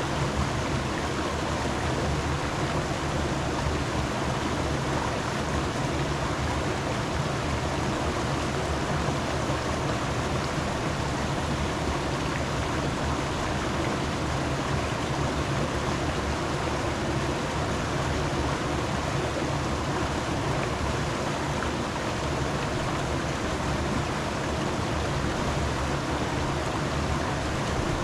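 Steady rushing of a flowing stream, an even, unbroken water noise.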